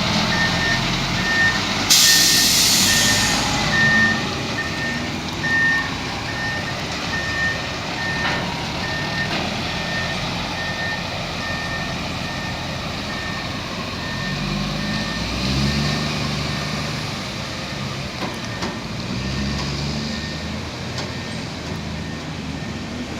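Reverse alarm of a Mack Granite dump truck beeping steadily, about one and a half beeps a second, over the truck's diesel engine as it backs up. A short hiss of air brakes comes about two seconds in, and the engine rises twice in the second half while the beeping stops.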